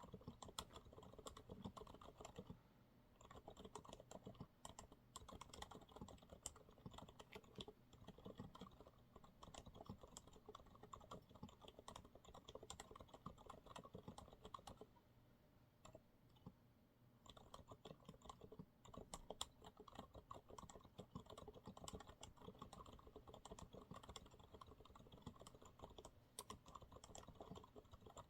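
Continuous fast typing on a Monsgeek MG108W mechanical keyboard with TTC silent brown switches, soft muted keystrokes. The typing pauses briefly twice, once about three seconds in and again around the middle.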